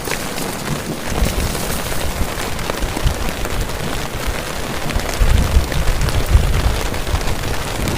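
Heavy rain falling steadily, with a deep rumble of thunder coming in about a second in and swelling strongest a little past the middle.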